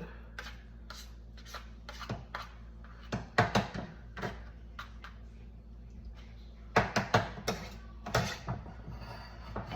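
Kitchen cookware and utensils knocking and clinking in scattered, irregular taps, over a steady low hum.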